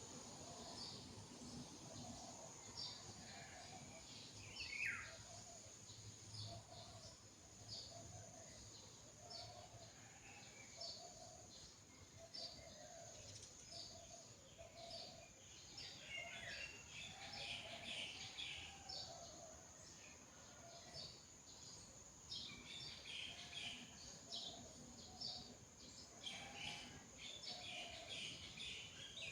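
Faint birdsong: many birds chirping with short high notes, over a lower note repeating about once a second and a steady high hiss.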